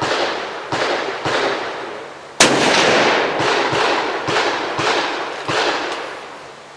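Rifle gunfire: a rapid string of shots about two a second, each with a short echoing tail, one much louder than the rest about two and a half seconds in.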